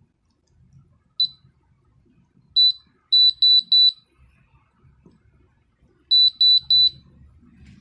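Dehumidifier control board buzzer beeping at a high, single pitch: one short beep, another, then a quick run of three, and about two seconds later another run of three.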